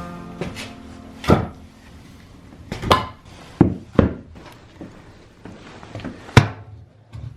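About five separate hard knocks and thunks, spaced unevenly a second or so apart, the sharpest and loudest about six seconds in.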